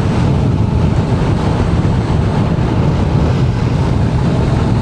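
Yamaha R7 parallel-twin engine running at a steady cruise, heard from the rider's own bike, with wind rushing over the microphone.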